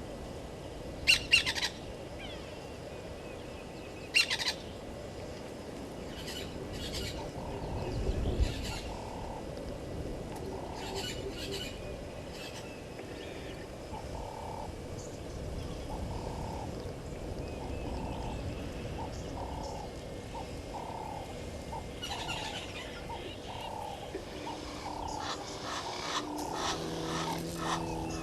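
Wild birds calling at a waterhole. Two loud, harsh calls come in the first few seconds, then a run of soft, low notes repeats about once a second, with a brief low rumble about eight seconds in.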